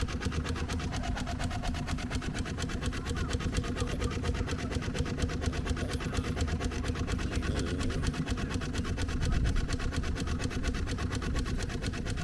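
Miniature traction engine running, with a fast, even mechanical beat.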